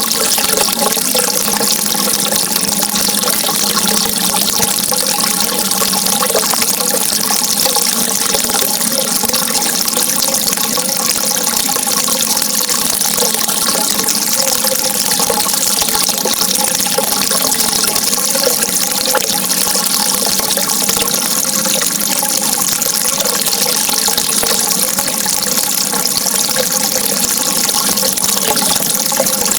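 Steady, unbroken running water with a constant hiss, with no change in level.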